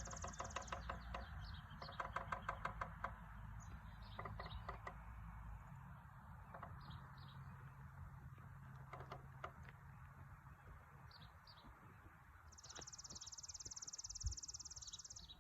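A woodpecker hammering on a wooden utility pole in quick runs of sharp knocks, the longest run about a second, with small birds chirping and a high buzzing trill near the end.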